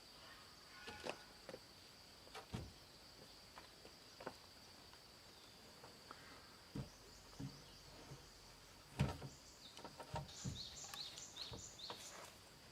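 Faint steady insect drone from the surrounding forest, with scattered light knocks and taps at irregular intervals, the sharpest a little after nine seconds in. Near the end a quick run of short chirps, about six of them, sounds over the drone.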